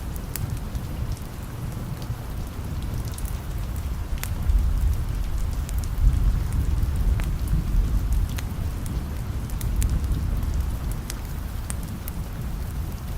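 Steady rain with a low rumble of distant thunder underneath that swells a few seconds in and then eases, and scattered sharp crackles.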